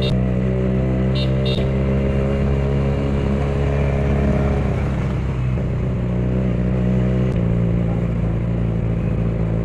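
Benelli TNT 300's parallel-twin engine running loudly at steady revs through its exhaust, with a brief change in revs about halfway through before it settles again.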